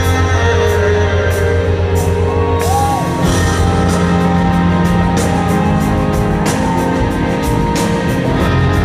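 Live rock band playing: sustained chords over a steady bass, with regular cymbal hits and a brief sliding note about three seconds in.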